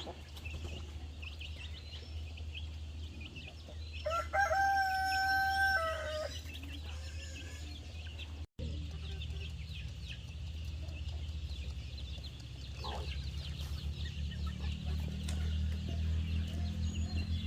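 A rooster crows once for about two seconds, over scattered clucking from chickens and a steady low hum.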